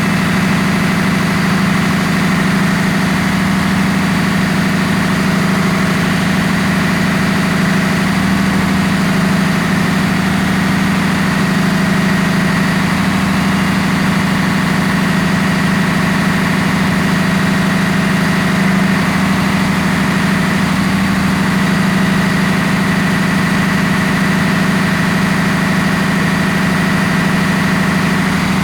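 Ship's engine-room machinery running steadily. A loud, unchanging low hum carries a constant high whine above it, with no change in speed or load.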